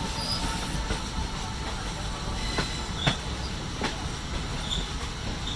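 Train running along the track: a steady low rumble broken by a few sharp clacks of the wheels over rail joints.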